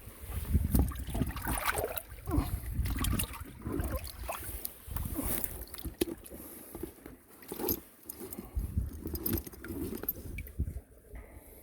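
Stream water sloshing and gurgling, with uneven low rumbling on the microphone.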